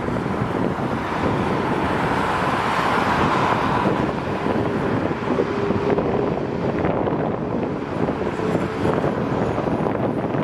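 Wind buffeting the microphone over a steady background rumble, with a swell of higher-pitched noise about two to four seconds in.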